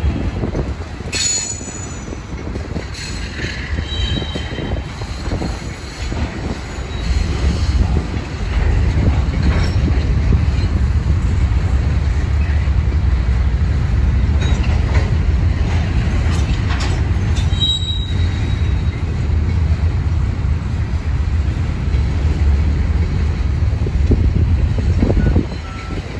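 Loaded rock train's gondola cars rolling past: a heavy low rumble of steel wheels on rail that grows louder after about eight seconds, with a few brief high wheel squeals.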